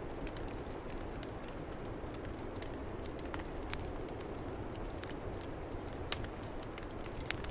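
Wood fire crackling, with irregular sharp pops, the loudest about six seconds in, over a steady low rush of snowstorm wind.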